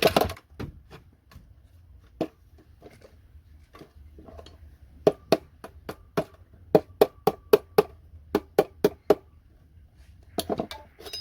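Sharp clicks and knocks from hand tools and hardware working on a circuit board. A few come early, then a quick run of about a dozen, around three a second, from about five to nine seconds in.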